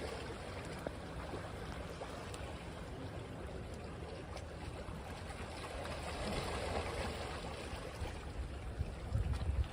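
Waves washing on a beach: an even wash of water noise that swells a little past the middle, with a few low rumbles near the end.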